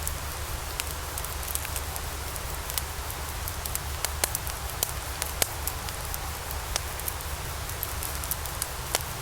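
Wood logs burning in a fireplace, crackling with many irregular sharp pops over a steady hiss and low rumble.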